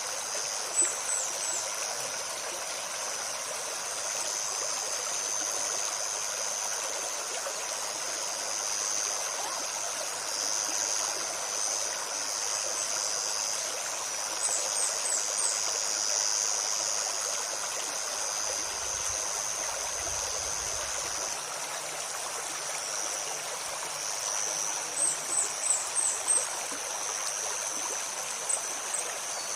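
Forest stream babbling and trickling over stones, with a steady high-pitched drone above it and a few small clusters of short, high, falling chirps from a small bird.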